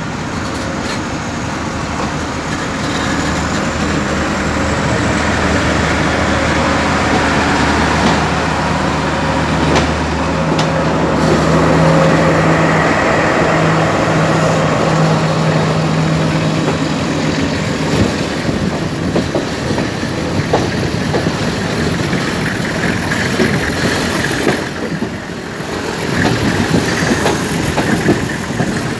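Sri Lankan diesel passenger trains running side by side on adjacent tracks, heard from a carriage doorway: a steady diesel engine hum with wheel-and-rail noise through the first half, giving way after about 18 seconds to busier sharp clicks of wheels over rail joints and points.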